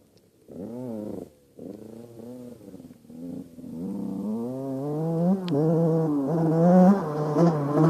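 Two-stroke Yamaha YZ85 dirt bike engine revving up and down in short swells, growing steadily louder as the bike comes closer.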